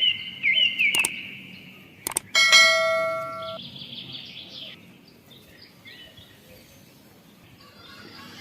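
A piece of metal struck once, giving a bright ringing clang that fades over about a second, preceded by a couple of sharp clicks. Birds chirp in the background.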